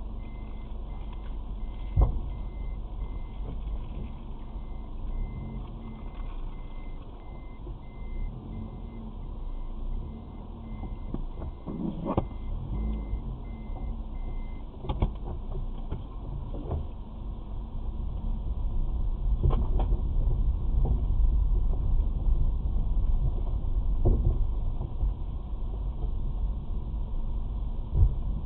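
Car driving, heard from inside the cabin: a steady low road rumble with a few knocks from bumps, getting a little louder in the second half.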